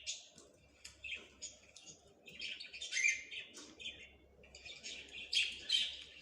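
Small birds chirping and twittering in rapid, overlapping bursts of high notes, thickest around the middle and again near the end.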